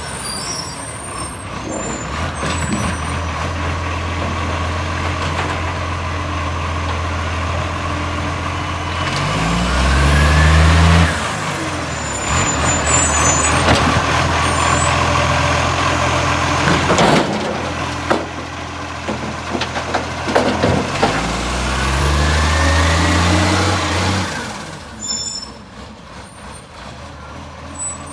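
Garbage truck's diesel engine with a leaking exhaust, running loudly and revving up twice, the first rev the loudest, then settling back to a lower idle near the end.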